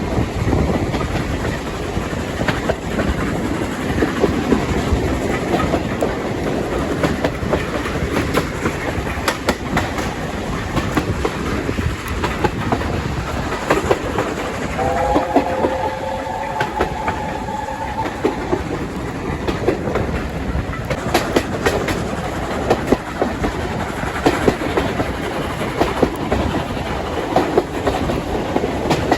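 Steam train running on heritage track, wheels clicking over rail joints, with a steady rumbling noise. About halfway through, a three-note chime whistle sounds for about three seconds.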